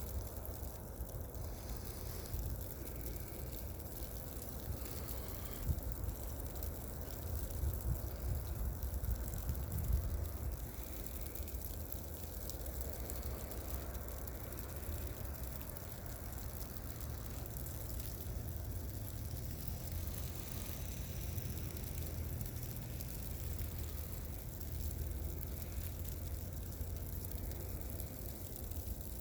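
Steady low rumble and hiss of a car driving on a snow-covered road: tyre and road noise with no distinct knocks or tones.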